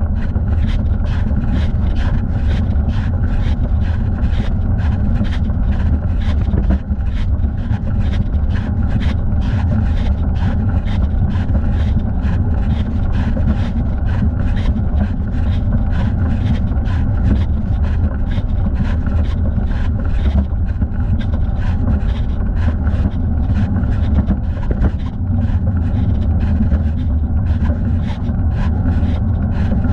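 Riding noise from a bicycle ride: a loud, steady low rumble of wind on the microphone and tyres, with a regular brushing tick about twice a second.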